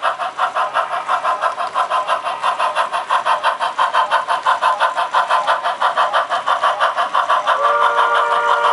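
HO scale model steam locomotive's sound system playing rapid, steady exhaust chuffs. Near the end a steam whistle blows one long chord over the chuffing.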